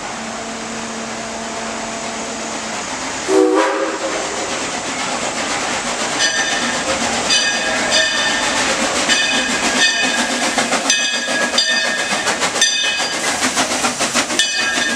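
Steam locomotive No. 43 of the Frisco Silver Dollar Line, with a steady hiss of steam under everything. A whistle blows briefly a little over three seconds in. From about halfway through, the locomotive bell rings about once a second.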